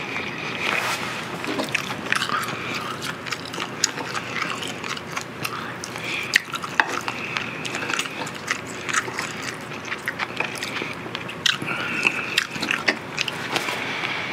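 Close-miked chewing and biting of food, with many short wet smacks and clicks from the mouth.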